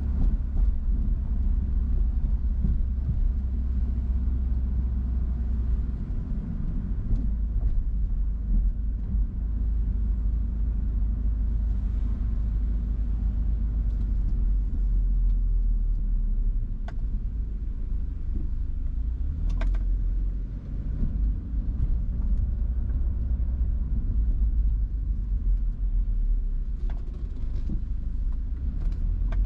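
Steady low rumble of a car driving, with a few faint, brief clicks partway through and near the end.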